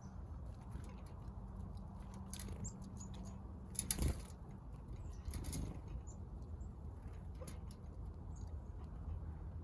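Small birds feeding: light scattered pecking taps, a brief wing flutter about four seconds in and another a little later, and a few faint high chirps, over a steady low hum.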